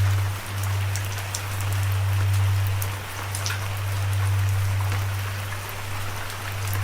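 Steady rain, with individual drops ticking sharply close by, over a continuous low rumble that swells and eases every couple of seconds.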